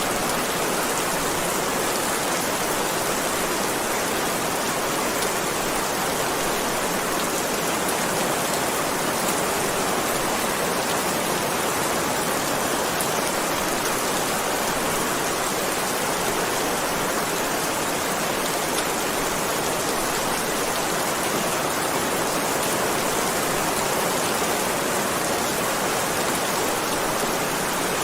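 Heavy rain falling steadily, a dense even hiss of drops with no thunder or breaks.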